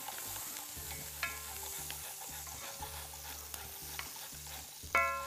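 Food sizzling in hot oil in a cooking pan, a steady frying hiss. A few sharp metallic clinks of a utensil against the pan ring out over it, the loudest near the end.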